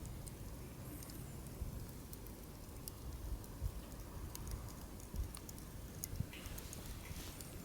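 Wood fire burning in a fire-pit stand, crackling with irregular sharp pops and ticks over a low steady rumble.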